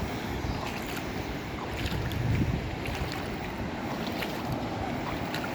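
Wind blowing on the microphone over sea waves washing onto a beach, with a stronger gust about two seconds in.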